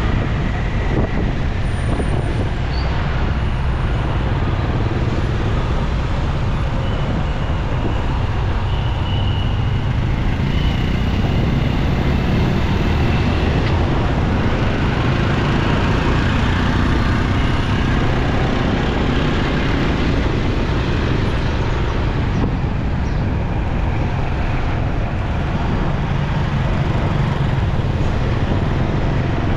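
Steady traffic noise heard from a motorcycle riding through city traffic, with the vehicles around it running.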